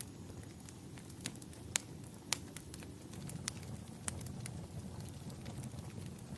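Wood fire crackling in a fireplace: irregular sharp pops and snaps, two louder ones about two seconds in, over a steady low rumble.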